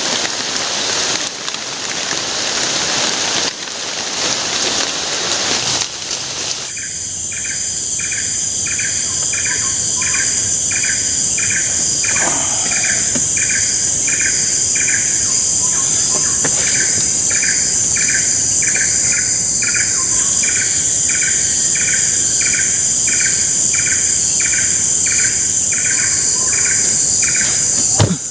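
Heavy rain falling on the forest, which stops abruptly about seven seconds in and gives way to a loud insect chorus: a steady high-pitched drone with a regular pulsing chirp about one and a half times a second. A short thump near the end.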